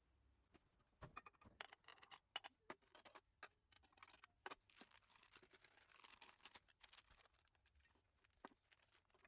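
Faint light clicks and taps with a soft rustle, from about a second in to about seven seconds, and one more tap near the end.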